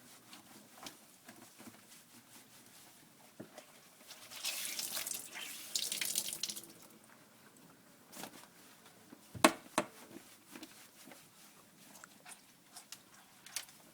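Water splashing into a bath for about two seconds, a few seconds in, with scattered small clicks and taps and one sharp knock past the middle.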